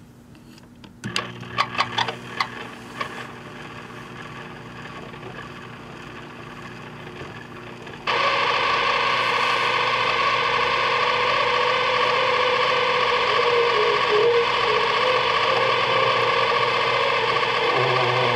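A run of sharp clicks, then a small Sharp Half-Pint microwave oven running with a steady low hum. About eight seconds in, loud distorted guitar music cuts in over it.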